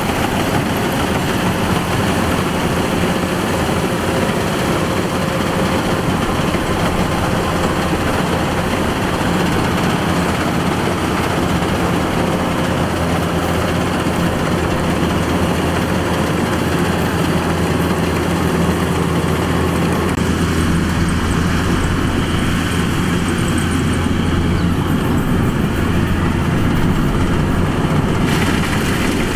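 Kubota DC-105X combine harvester's diesel engine and threshing machinery running steadily, a constant low engine hum. The tone thins about two-thirds of the way through, and the high hiss drops off near the end.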